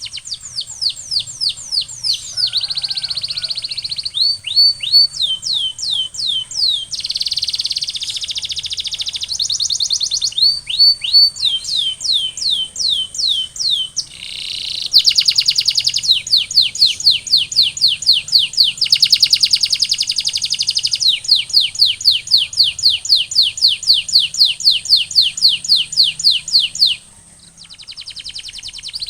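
Canary singing its long song: runs of rapidly repeated, downward-sliding whistled notes alternating with buzzy rolls, with a short break near the end.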